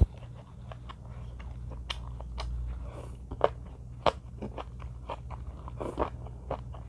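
Close-up eating sounds: biting and chewing green onion kimchi (pa-kimchi), with many short, irregular crunches and wet mouth clicks over a steady low hum.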